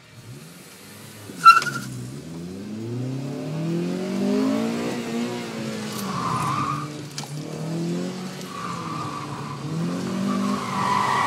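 2009 Honda Civic Si's 2.0-litre four-cylinder, heard from inside the car, revving up and falling back again and again through an autocross run, with tyres squealing in three bursts in the second half as the front end understeers and scrubs through the corners. One sharp, loud clack about a second and a half in.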